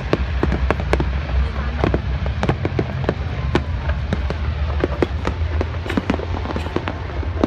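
Fireworks display: a dense, irregular barrage of bangs and pops from aerial shells bursting, over a steady low rumble.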